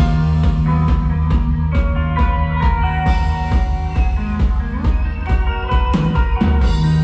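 Live rock band playing an instrumental intro: drum kit and guitars over a heavy low end, held notes and steady drum hits, with no singing.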